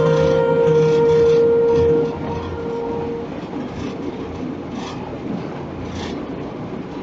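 Running sound of an electric train heard from the driver's cab. A steady tone lasts about the first three seconds, then a rumbling hiss of the train on the track.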